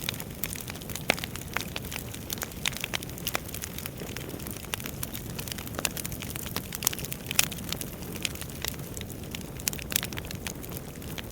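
Wood fire burning in a fireplace: a steady low rush of flame with many sharp, irregular crackles and pops of the burning logs.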